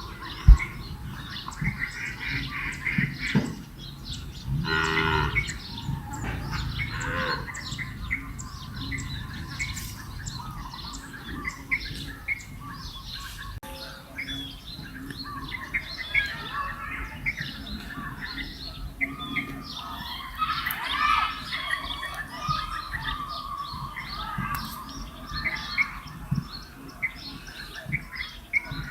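Birds chirping and calling throughout, with a louder squawking call about four to five seconds in, over a low rumble. A sharp knock comes just after the start.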